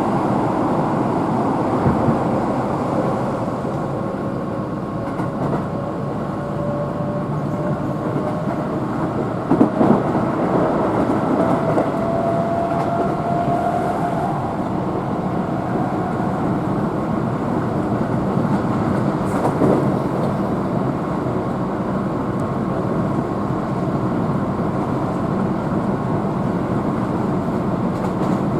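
Keihan electric train running, heard from on board: a steady rumble of wheels on rail, with a faint motor whine that rises in pitch through the middle and a few short knocks.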